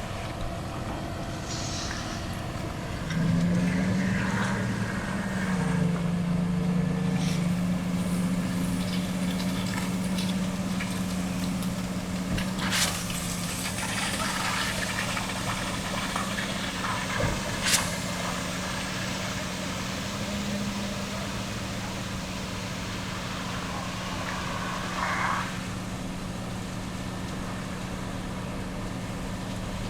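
A heavy truck's engine running with a steady drone that starts up about three seconds in and holds, with a couple of sharp knocks or clanks near the middle.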